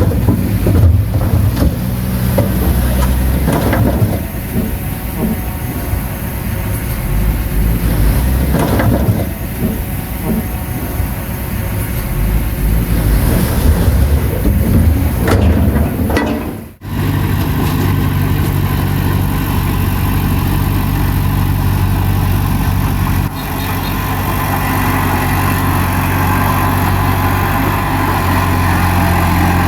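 Heavy diesel engine of a bulldozer working, its pitch and load changing, with knocks and clatter. About 17 s in the sound cuts off abruptly, and a steadier engine hum follows.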